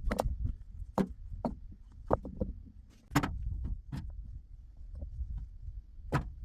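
A series of irregular sharp knocks and clacks, about ten in a few seconds, over a low steady rumble.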